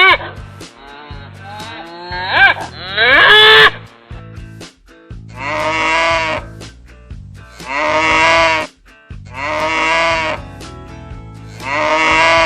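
Cattle mooing several times with gliding, drawn-out calls, over a background rock track with a steady beat. After a cut, a farm animal calls four times at about two-second intervals, each call lasting just over a second.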